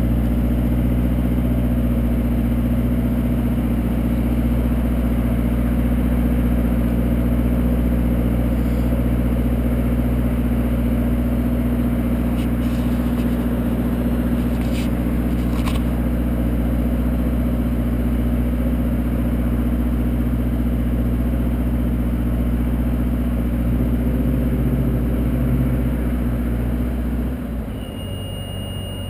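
An engine running steadily at an even speed, then dropping away near the end.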